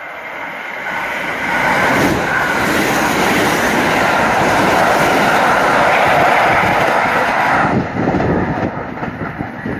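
Kintetsu Osaka Line train running through the station at speed without stopping. The rush of wheels on rail builds about a second in and stays loud for several seconds as the cars go by, then eases near the end.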